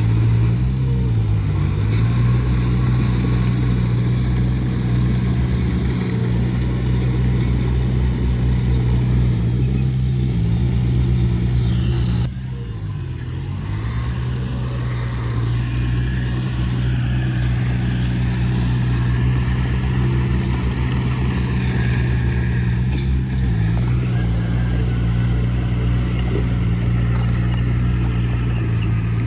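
Diesel engine of heavy earthmoving machinery running steadily, its pitch dipping briefly and recovering about four times. The level drops abruptly about twelve seconds in, then creeps back up.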